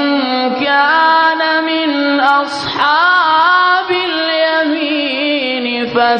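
A man's voice chanting Quranic recitation in the Iraqi maqam style: one long, held, ornamented melodic line with gliding pitch and a quick trill near the end.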